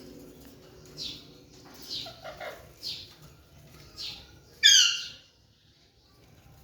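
Alexandrine parrot calling: four short chirps about a second apart, then one loud, harsh squawk about two-thirds of the way in.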